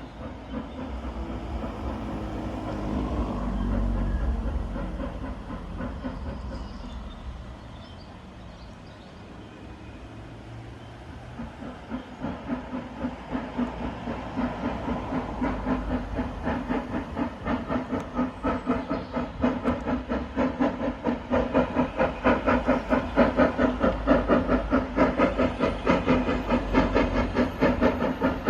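Hunslet 0-6-0ST saddle-tank steam locomotive pulling away with a train. A low rumble swells and fades in the first several seconds, then the regular exhaust beats come in, a couple a second, growing steadily louder as the engine works its train towards the listener.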